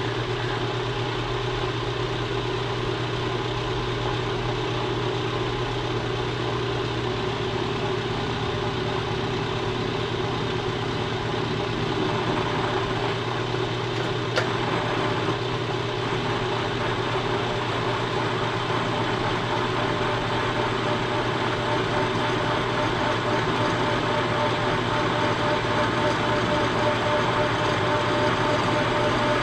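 Machine tool running steadily while taking a facing cut on the engine frame, a steady hum with a higher cutting tone that grows stronger in the second half. There is one sharp click about halfway through.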